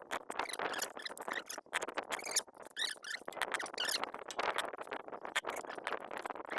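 Wet mud and debris being dug and scraped away by hand: many quick, irregular scrapes and rustles.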